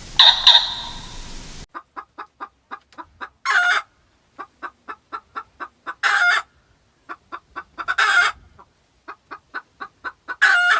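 Chicken cackling: runs of quick, evenly spaced clucks, each ending in a longer, louder squawk, repeated four times. A loud call sounds just before this, in the first second and a half.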